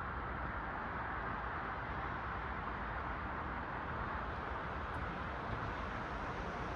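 Steady wash of road traffic from cars passing, an even hiss of tyres and engines with no single vehicle standing out.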